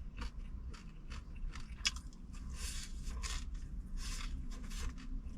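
Close-up crunching and chewing of crispy claypot-rice crust (guoba), an irregular run of short crisp crunches.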